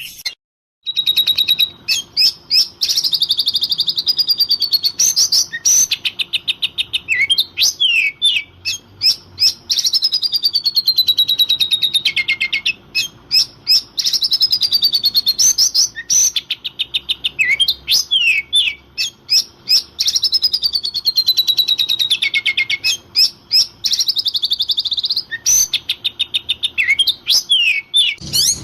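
Oriental magpie-robin (kacer) singing an agitated, continuous song of fast rattling trills and sliding whistles, with a short break about half a second in.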